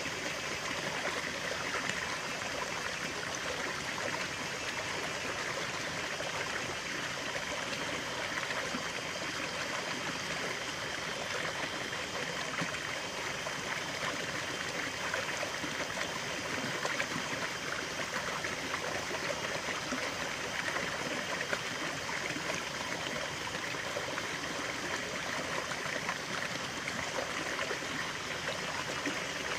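Running water of a small stream, a steady rush with trickling and babbling.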